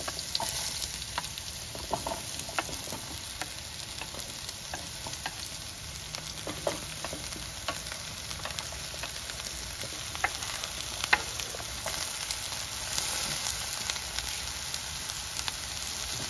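Chunks of opo squash sizzling as they go into a large pan of smoking-hot oil, a steady frying hiss. Scattered clicks and taps run through it as more pieces are pushed off a wooden cutting board with a knife and drop into the pan.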